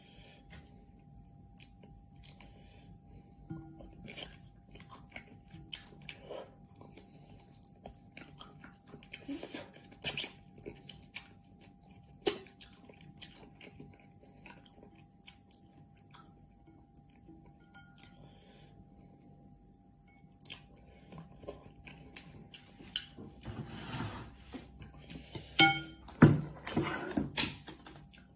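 A person chewing and eating noodles with chopsticks, close up: soft wet mouth noises and many small scattered clicks. Near the end there is a louder stretch of knocks and one short pitched sound.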